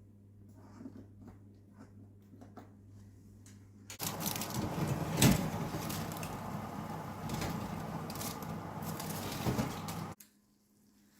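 Faint steady hum with small ticks, then about four seconds in a loud crackling sizzle of chicken and vegetables roasting in an oven tray, which cuts off suddenly about ten seconds in.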